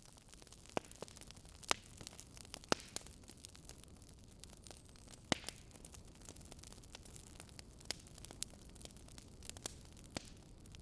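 Wood fire crackling, with a steady faint hiss and irregular sharp pops every second or two.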